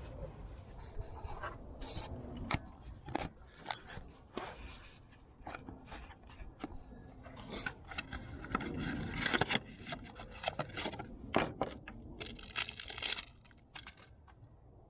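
Irregular clicks, knocks and scraping of objects being handled, with a longer scraping stretch near the end.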